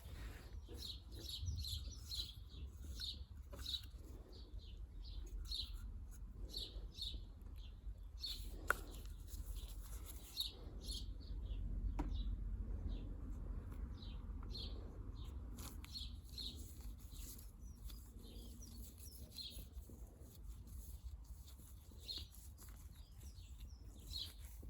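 Small birds chirping repeatedly over a steady low rumble, with two sharp clicks about nine and twelve seconds in.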